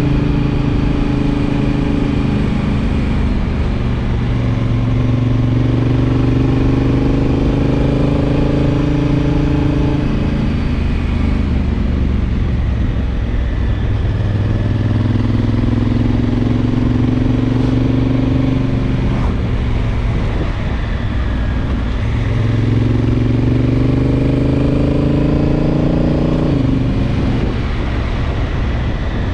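Honda Africa Twin DCT's parallel-twin engine pulling under way, its pitch climbing over several seconds and then dropping back, three times over, with the last drop sudden near the end.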